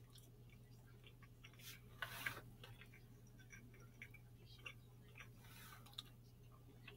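Faint chewing of a cheeseburger: scattered small mouth clicks over a low steady hum, with a brief louder noise about two seconds in.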